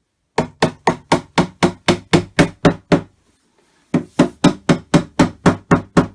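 A mallet striking flat-pack furniture parts, driving a panel down onto its wooden dowels: steady blows about four a second, a run of about ten, a short pause, then another run near the end.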